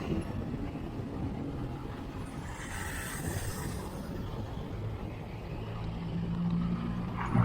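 Wind rumble on a chest-mounted action camera on a moving road bike, with road traffic around it. A vehicle hisses past about three seconds in, and an engine hum grows louder near the end as another motor vehicle comes close.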